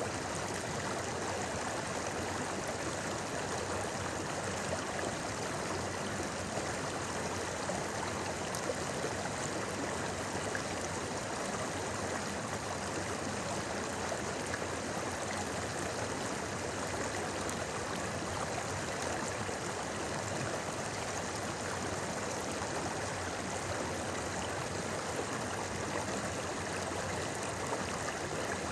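Shallow river flowing over rocks: a steady burble and rush of running water.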